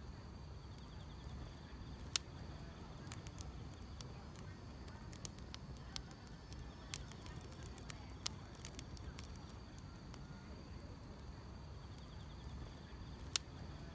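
Wood fire crackling, with sharp pops every second or two over a low steady rumble of flames, and a faint steady chirring of grass insects behind it.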